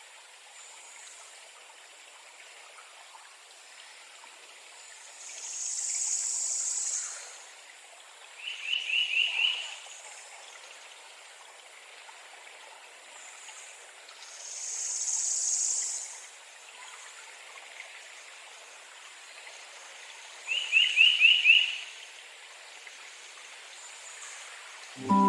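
Outdoor marsh ambience: a steady faint high hiss, a high buzz that swells and fades twice, and twice a quick run of about five short rising chirps.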